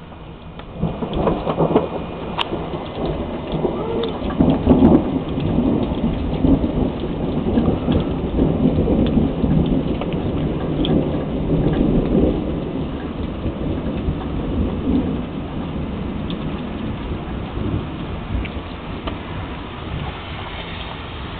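A long roll of thunder over steady rain. It swells suddenly about a second in, is loudest in the first few seconds, and slowly fades over the last several seconds.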